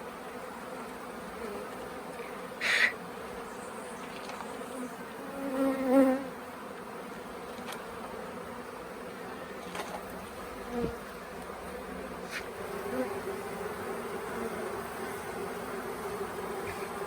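Honeybee swarm buzzing steadily around the hive box. The buzz briefly swells much louder about six seconds in, with a short hiss-like burst a little before it.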